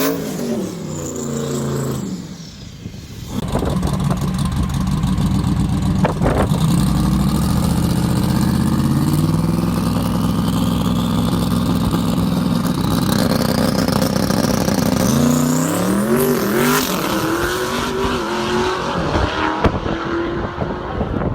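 Twin-turbo Dodge Demon's 6.2-litre Hemi V8 running hard under acceleration. A high whine rises steadily through the middle, and near the end the engine pitch swings up and down.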